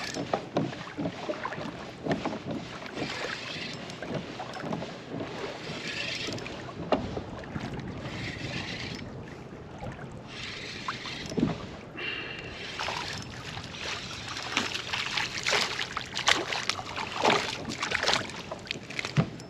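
Water sloshing and splashing around a kayak, with irregular small knocks on the hull and wind on the microphone.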